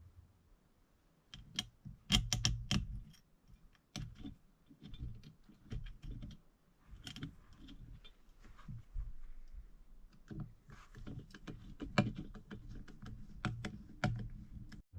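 Irregular small metal clicks and taps of a 1963 Chevrolet Corvair carburetor being handled and fitted back together, with a cluster of sharper clicks about two seconds in.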